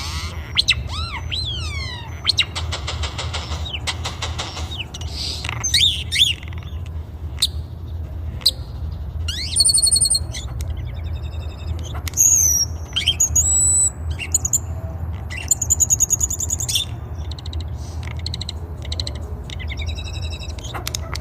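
Songbird singing a varied song of whistled notes, rising and falling glides, rapid trills and sharp chips, phrase after phrase with short gaps. A steady low hum runs underneath.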